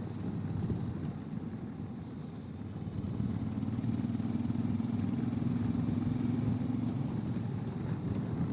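A vehicle engine running, with a steady low hum that comes in about three seconds in and fades out a second or so before the end.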